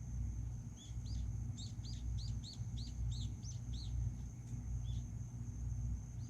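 A bird calling a quick run of about ten short chirps, then falling quiet near the end, over a steady low rumble and a faint, steady high-pitched tone.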